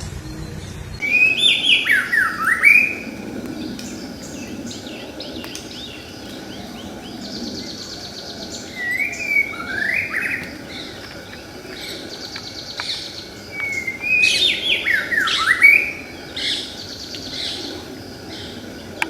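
White-rumped shama singing: loud whistled phrases of swooping notes that fall and rise, three times, with quieter rapid high trills between them.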